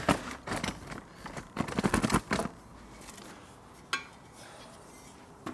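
Metal tools and parts clinking and clattering as they are handled in a workshop: a few separate knocks, a burst of clatter about two seconds in, and one more knock near the end.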